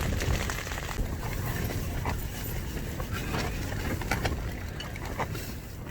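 Gale-force wind buffeting a tent, heard as a steady low rumble, with scattered sharp taps on the fabric.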